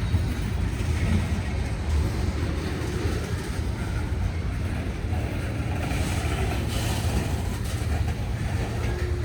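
Freight train cars rolling past on the rails, a steady low rumble of steel wheels on track.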